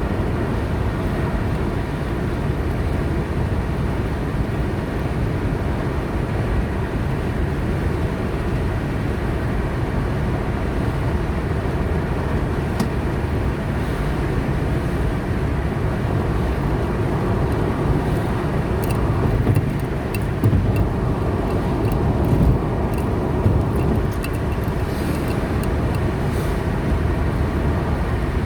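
Car driving on a highway: a steady low rumble of engine and tyre noise, with a few faint ticks in the last third.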